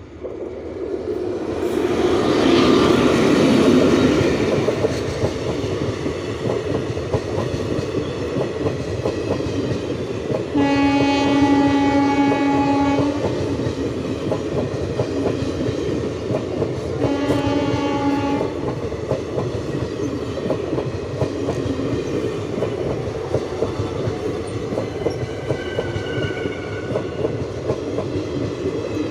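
Indian Railways train rolling past at speed, its wheels clattering over the rail joints, loudest a few seconds in. The train's horn sounds twice: a long blast about ten seconds in and a shorter one about seven seconds later.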